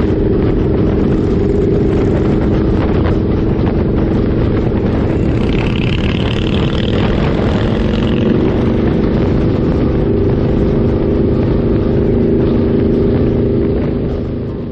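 Suzuki Boulevard C50's V-twin engine running at a steady cruising speed, with wind buffeting the microphone. The sound eases off near the end.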